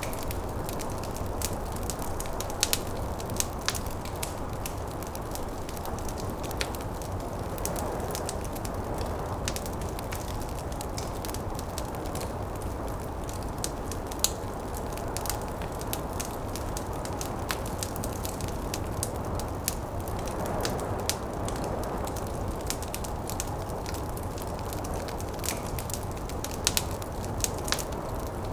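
Wood fire crackling with frequent sharp pops, over a steady low rush of snowstorm wind that swells gently a couple of times.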